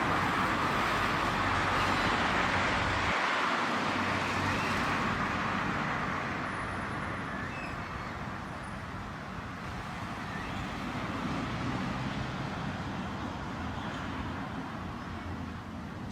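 Steady rushing background noise, loudest in the first five seconds and easing off after that.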